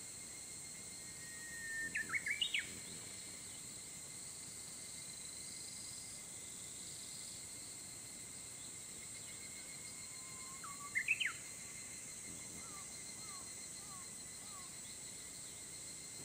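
A bird sings twice, each phrase a held whistled note followed by a few quick, sharply rising and falling notes, about two seconds in and again near eleven seconds. Fainter short chirps follow. A steady high-pitched insect hum runs underneath.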